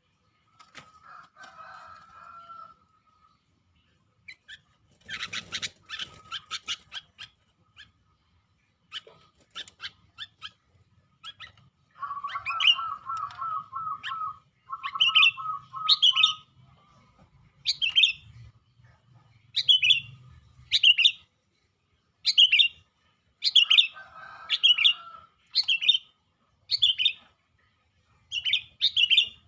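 Sooty-headed bulbul (kutilang) singing in a cage, in full song. Short, loud, sharp whistled phrases repeat every second or so through the second half, mixed with a few lower, rapid trills.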